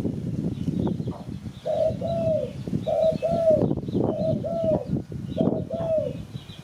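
Spotted dove cooing: four phrases in a row, each two short notes with the second arching down, over a steady low rumbling noise and faint high chirps of small birds.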